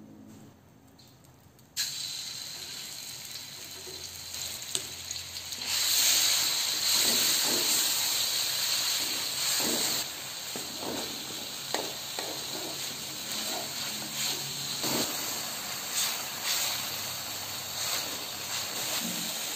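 Ground shallot, garlic and chilli paste frying in hot oil in a metal wok: the sizzling starts suddenly about two seconds in and runs on. A spatula scrapes and taps against the wok many times as the paste is stirred.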